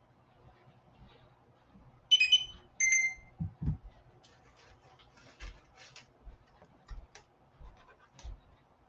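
A brief high two-part chirp about two seconds in, electronic-sounding like a phone notification, then two soft thumps and scattered light clicks and rustles as comic books are handled.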